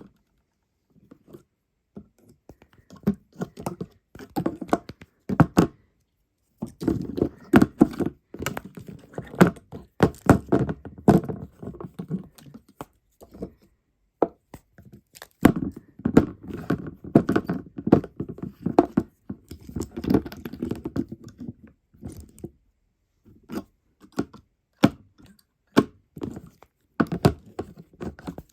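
Hard objects knocking and clattering against each other in quick runs of taps and thunks, broken by moments of silence.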